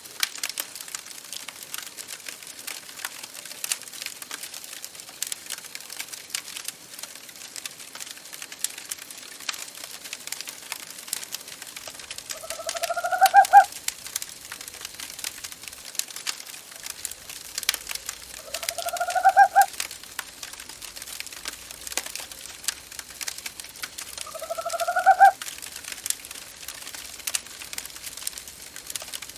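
An owl hoots three times, about six seconds apart, each call a single rising hoot a little over a second long. Under it a wood fire in a fireplace crackles and pops steadily.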